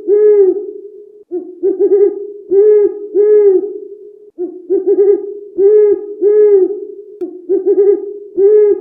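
A bird hooting in low, repeated phrases of three or four notes, each phrase about three seconds after the last.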